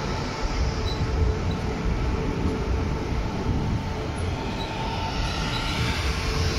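SJ X40 double-deck electric train rolling slowly past: a steady rumble of wheels on rail with a faint hum, and a couple of brief faint high wheel squeaks.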